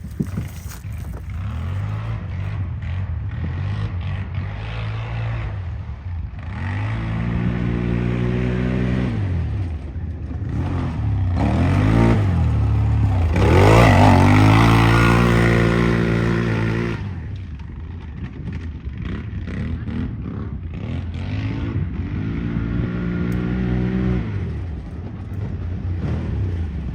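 ATV engine revving up and falling back again and again as it is ridden hard around a course, loudest about halfway through as it comes close, then quieter again.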